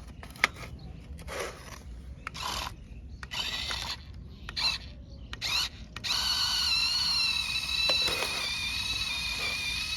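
Small electric motor and plastic gears of a toy remote-control tractor. Scattered short clicks and rattles at first, then from about six seconds in a steady, high whirring whine.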